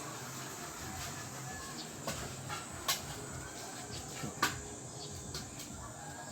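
A few sharp metallic clicks and taps of hand tools working on engine parts, spread a second or so apart, over a faint steady hiss.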